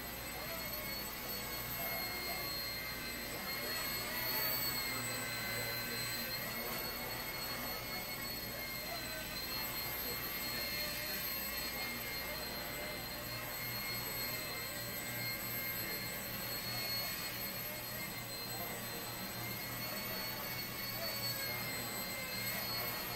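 Blade 70 S micro RC helicopter in flight: the steady high-pitched whine of its small electric motor and spinning rotor. The pitch wavers slightly as the throttle is worked.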